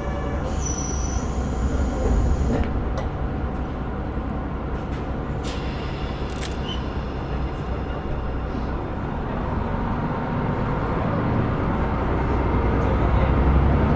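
KiHa 125 diesel railcar standing with its engine idling as the doors close: a short high tone, then a thump around two and a half seconds in, and a few sharp clicks a few seconds later. Near the end the engine noise builds as the railcar starts to pull away.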